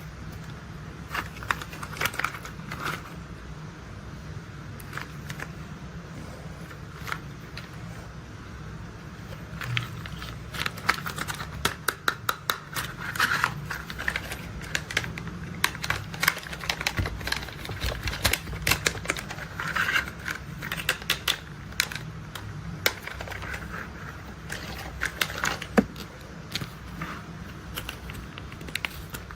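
Tapping and clicking on toy construction vehicles: many sharp, irregular taps, coming in quicker runs through the middle, over a low steady hum.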